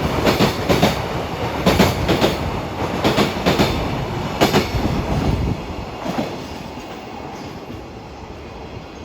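Wheels of a passing container freight train (JR Freight Koki wagons) clattering over rail joints in quick pairs of clacks. The clacks die away after about five seconds, leaving a fading rumble.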